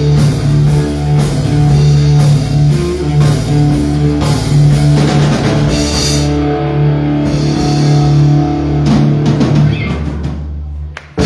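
Live country-rock band with electric guitar, bass and drum kit playing the instrumental end of a song, thinning out near the end and stopping abruptly about eleven seconds in.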